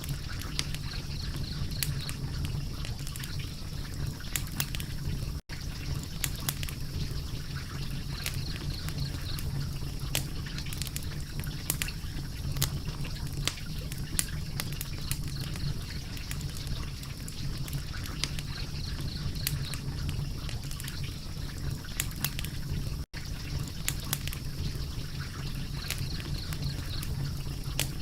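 Fire crackling steadily, with frequent sharp pops over a constant low rush of flame. The sound cuts out for an instant twice, about five seconds in and again near twenty-three seconds.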